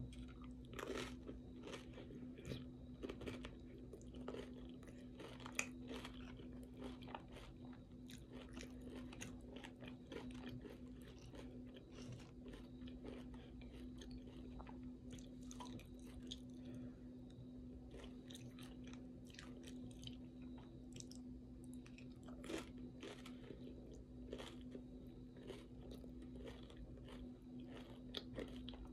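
Close-miked chewing and crunching of tortilla chips loaded with ground beef, sour cream and cheese: irregular crisp crunches throughout, over a steady low hum.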